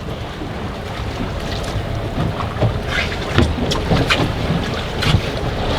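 Strong wind buffeting the microphone over water slapping against a small fishing boat's hull, with a run of short irregular knocks from about halfway through.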